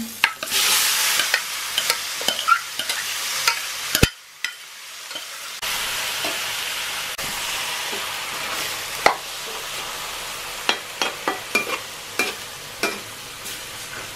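Chopped banana stem hitting a hot coconut-oil tempering of mustard seeds, curry leaves and dried red chillies in a metal wok, sizzling loudly at first, then frying steadily. A steel spoon stirs it, scraping and tapping against the pan; the sizzle drops out briefly about four seconds in.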